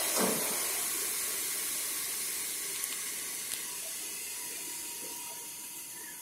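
Passenger train running on the rails: a steady hiss of wheels and rushing air that slowly fades away, with two faint clicks in the middle.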